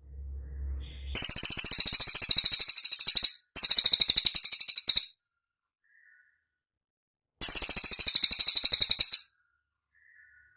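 Cililin songbird singing three fast, high-pitched trills of about a dozen notes a second, with short faint calls between them. A low rumble sounds in the first second.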